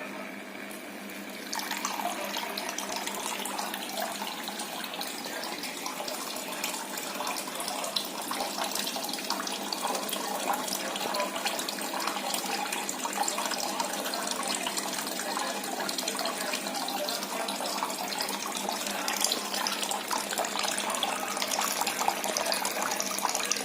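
Water trickling steadily from a pipe over a cooler-style filter pad behind a fridge, starting about a second and a half in.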